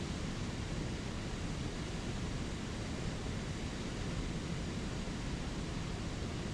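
Steady rush of a spring creek flowing over small waterfalls.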